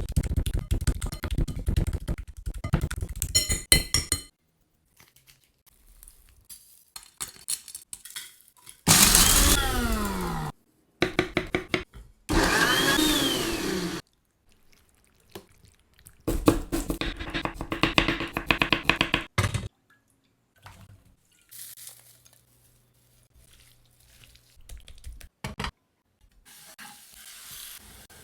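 Kitchen cooking sounds in short cut-together clips: fast repeated knocks and clicks at the start and again in the second half, two loud bursts of an electric blender-type grinder about nine and twelve seconds in, and quieter stirring sounds between.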